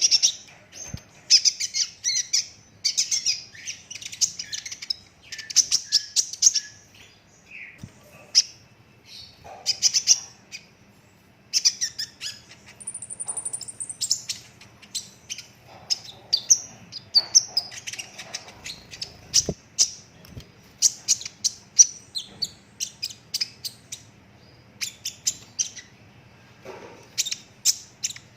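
Kolibri ninja (brown-throated sunbird) singing continuously in rapid-fire bursts of sharp chips, trills and clicking rolls, with a brief high thin whistle about halfway through; a faint steady hum runs underneath.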